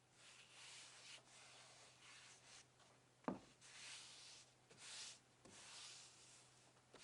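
Faint strokes of rubbing on wood, several in a row, with one sharp knock about three seconds in.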